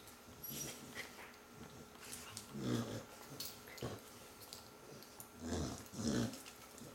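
Dog growling in a few short, low bursts, the loudest about three seconds in and twice near the end.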